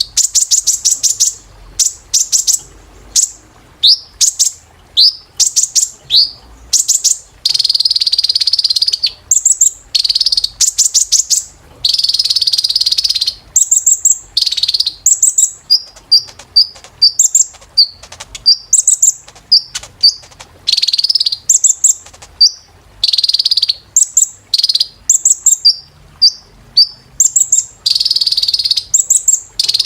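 A kolibri ninja sunbird singing a loud, high-pitched song of quick chirps and longer, fast trills, in phrases of a second or two with short gaps between them.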